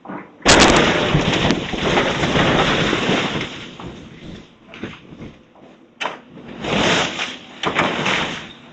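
Demolition debris from a house being torn down: a sudden loud crash about half a second in, followed by several seconds of crunching and rumbling that fades, then more crunching bursts near the end.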